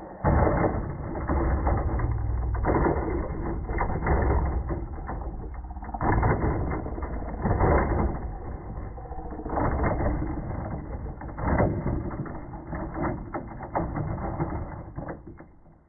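Traxxas Sledge Hammer VXL radio-controlled truck running on a 3S battery, its electric drivetrain whirring and clattering in repeated surges of throttle every second or two, with knocks as it bounces over the ground.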